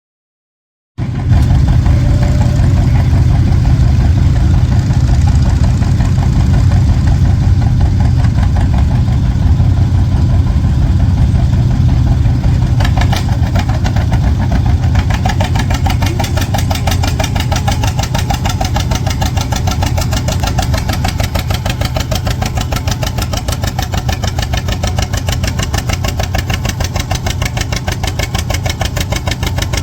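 Antique tractor engine running loud and steady, its exhaust beats pulsing evenly; the sound cuts in about a second in.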